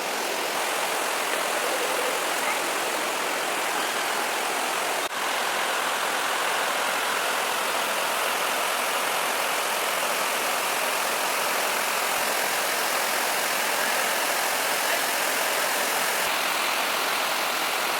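Steady rushing of flowing water, an even hiss with little low rumble, broken by a brief click and dip about five seconds in.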